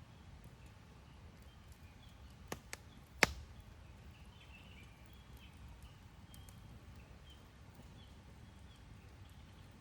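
Campfire burning: three sharp pops of burning wood about two and a half to three seconds in, the last the loudest, over a faint low rumble.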